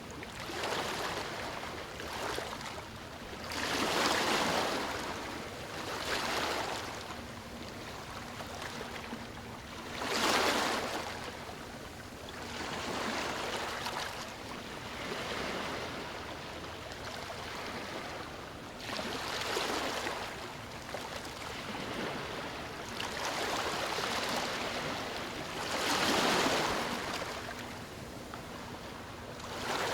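Sea waves breaking and washing on a shore, rising and falling in irregular swells every few seconds. The biggest surges come about four, ten and twenty-six seconds in.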